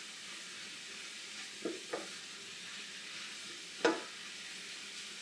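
Sliced mushrooms and onions frying in a stainless steel skillet with a steady soft sizzle, stirred with a wooden spoon. The spoon knocks against the pan twice around two seconds in and once, louder, near the end.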